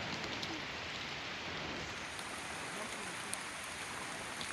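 Steady rain falling on rainforest foliage, a constant patter with a few separate drops ticking now and then.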